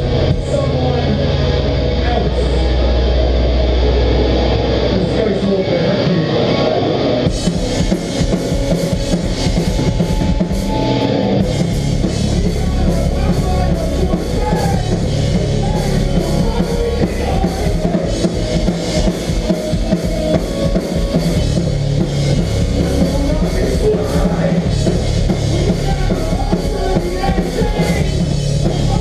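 Melodic hardcore band playing live with no vocals: held guitar and bass chords ring out, then the full drum kit comes in about seven seconds in and drives a steady, heavy beat under the guitars.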